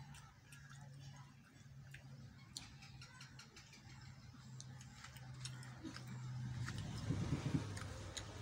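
A man chewing a mouthful of food eaten by hand, with small wet mouth clicks and smacks over a low steady hum. The eating noise grows louder toward the end, with a denser burst shortly before the end.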